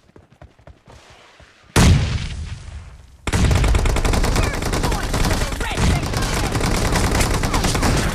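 Shooter video game gunfire: a few soft clicks, then a loud blast a little under two seconds in that dies away over about a second, then rapid automatic fire that runs on without a break.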